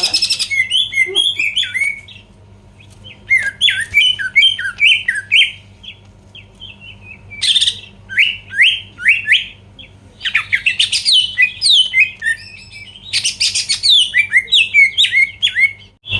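Cucak ijo (green leafbird) in full song: phrases of rapid, sliding chirps, some harsh and high, in about five bursts with short pauses between them.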